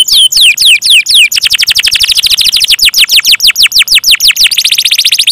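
Domestic canary singing a loud, continuous song of rapid downward-sweeping notes. About a second in, and again later, the notes speed up into fast trills.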